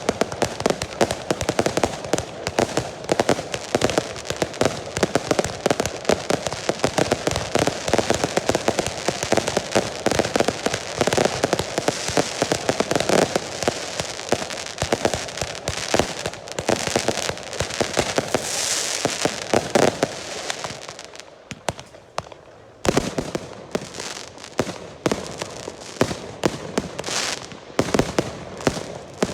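Girândola fireworks going off in a dense, rapid barrage of firecracker bangs. The barrage thins out and drops quieter about three-quarters of the way through, then separate loud bangs resume.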